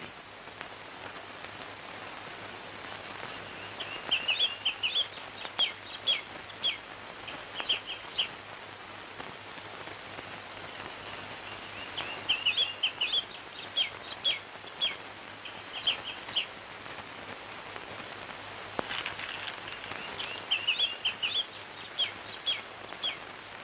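Birdsong in three bouts of rapid chirps and short down-slurred notes, with pauses of a few seconds between them, over a steady background hiss.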